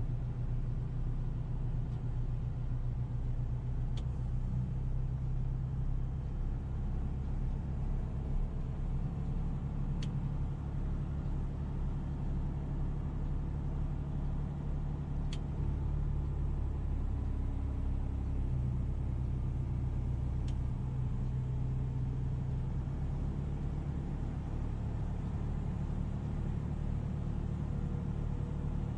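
Car engine running steadily with a low rumble, as from a vehicle on the move; the low hum shifts slightly in pitch now and then.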